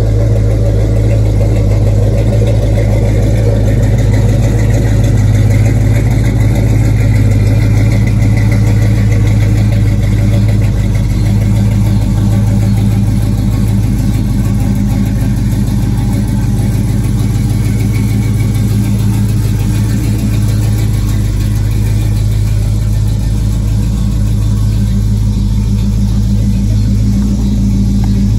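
1969 Chevelle SS 396's big-block V8 idling steadily, with an even, unchanging low note.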